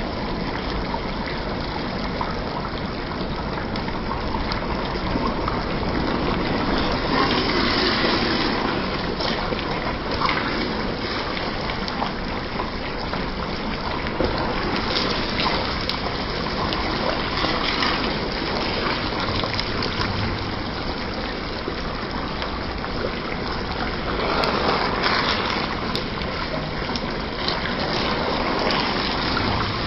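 Beef curry frying in a pan on the stove: a steady sizzling hiss that swells now and then as a wooden spatula stirs the meat.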